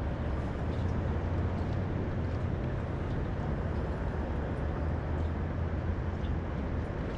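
Steady low drone of a boat motor running, under an even wash of wind and water noise.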